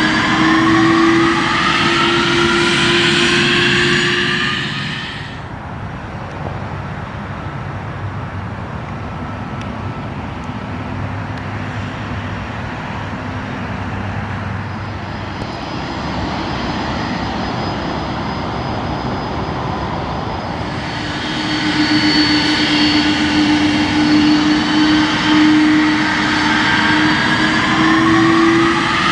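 Jet aircraft engines at an airport: a loud engine whine with tones rising in pitch over a rushing hiss. About five seconds in it cuts abruptly to a duller, lower rumble of engine noise, and about 21 seconds in it cuts back to a loud whine with rising tones.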